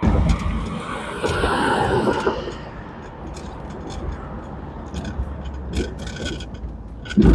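A 1964 Ford Thunderbird's 390 V8 running as the car is driven up at low speed. It is loudest in the first couple of seconds, with scattered light ticks later and a loud thump near the end.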